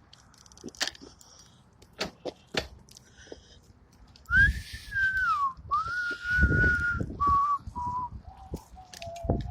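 A person whistling a slow tune in clear, breathy notes, starting about four seconds in and stepping down in pitch note by note. A few faint clicks come before the whistling.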